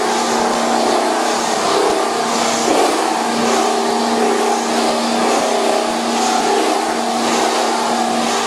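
Cable copper-wire recycling machine running: a steady, loud motor hum under a wide hiss that swells roughly once a second.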